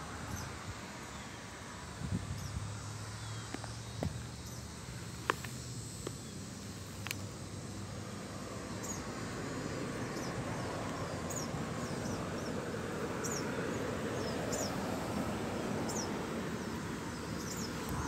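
Bird chirping: short, high, downward chirps repeating about once a second, clearer in the second half, over a steady outdoor hiss. A few sharp clicks come in the first several seconds.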